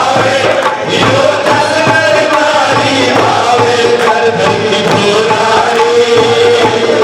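Devotees singing a Shyam bhajan together in a sustained, wavering chant-like melody, with musical accompaniment.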